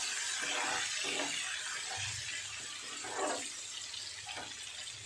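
Ground moong dal paste frying in hot oil in a metal kadhai, sizzling and bubbling steadily and fading slowly. A steel ladle stirs it and scrapes the pan a few times.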